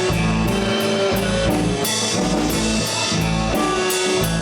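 Live blues band playing a slow blues between vocal lines: electric guitar over drums with a steady cymbal beat, and bass.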